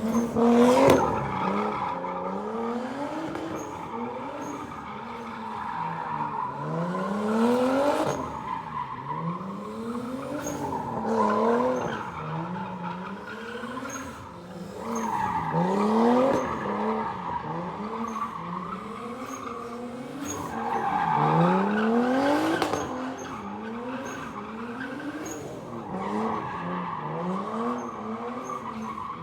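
Drift car engine revving hard, its pitch climbing and dropping over and over, with tyres squealing and skidding in several long swells; loudest about a second in.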